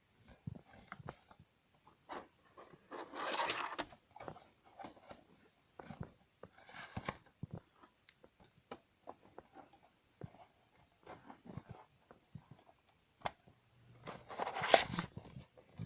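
Handling noises: scattered small clicks and knocks, with louder rustling bursts about three seconds in, about seven seconds in, and near the end.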